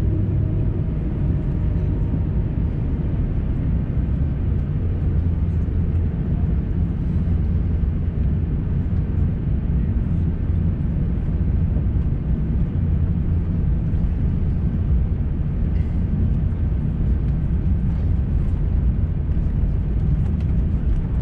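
Steady cabin noise inside an Airbus A350-900 airliner: a constant low engine and airflow rumble with a faint hum running through it.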